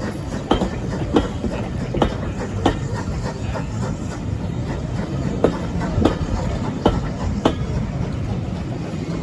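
Railway carriage wheels running over rail joints: a steady rumble with clickety-clack clicks that come in pairs.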